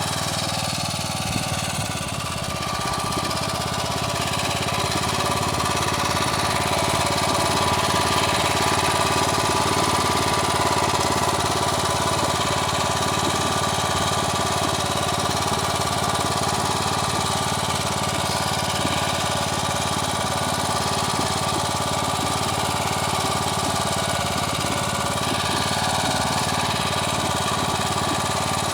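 Motor Sich walk-behind tractor's engine running steadily under way, a continuous even engine note with no big changes in speed.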